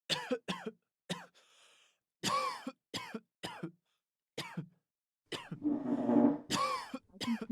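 A person coughing and clearing their throat in short separate bursts, about eight in the first five seconds. It is followed near the end by a longer, denser stretch of voice-like sound.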